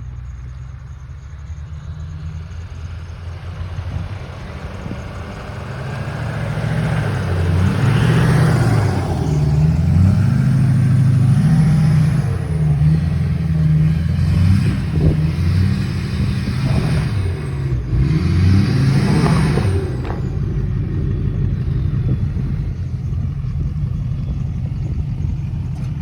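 Pickup truck's 4.8-litre V8 engine revving hard in deep snow, its pitch rising and falling several times as it works to climb, loudest between about six and twenty seconds in.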